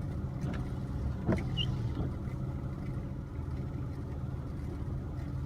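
Steady low engine hum, like a vehicle idling, with a few faint ticks in the first two seconds.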